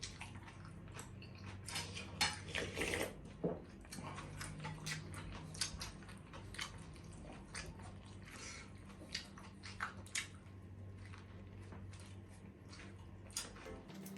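Close-up eating sounds: chewing and biting into grilled meat, with utensils clicking against plates in many short, irregular clicks over a steady low hum.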